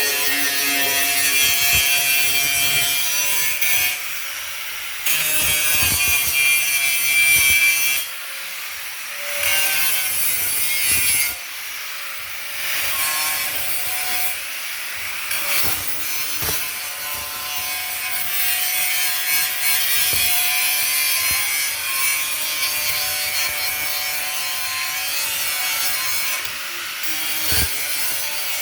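Abrasive sanding on a metal refrigerator part: a steady rasping scrape with a few short pauses in the first half.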